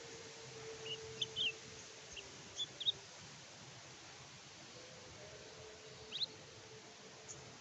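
Kecial kuning (a white-eye songbird) giving short, high chirps: a scattered run of them in the first three seconds, then a quick double chirp about six seconds in. A faint steady hum sits underneath.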